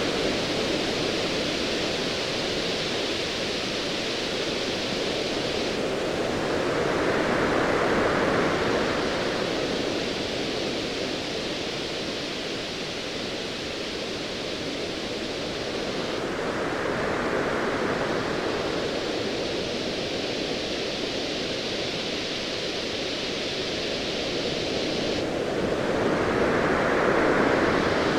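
Ocean waves as a steady rushing surf, swelling and easing about every nine to ten seconds.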